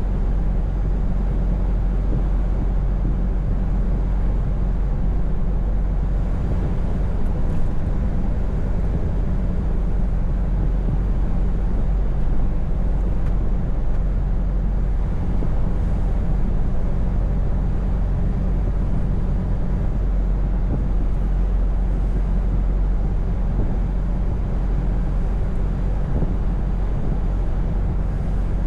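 Scania V8 truck engine running at a steady cruise, a constant low drone with road and tyre noise, heard from inside the cab.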